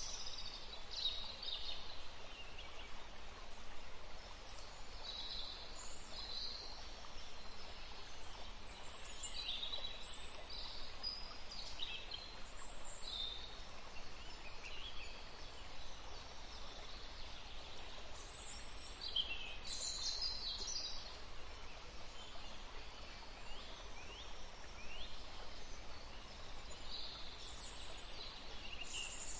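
Steady background hiss with scattered faint, high bird chirps.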